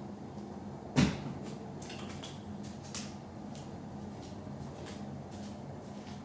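A single sharp knock about a second in, over a steady low hum, with faint scattered clicks afterwards.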